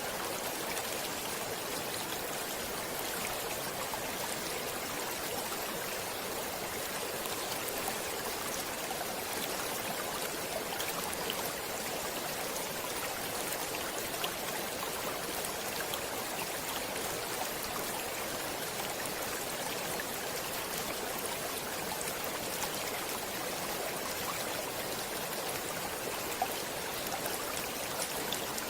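Water in a stream flowing and splashing in a steady, even rush, with a few brief splashes standing out now and then.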